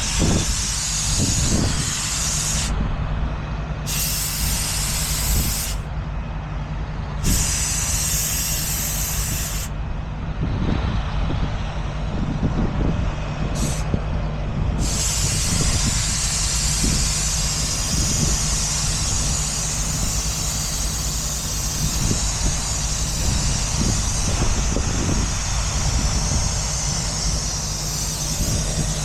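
Compressed air hissing out of a truck's air system, cutting off briefly a few times in the first half and then running steadily, over a truck engine idling.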